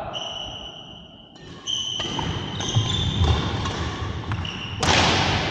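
Badminton rally: court shoes squeaking in short high squeals on the hall floor, with sharp racket hits on the shuttlecock. A louder burst of noise comes near the end.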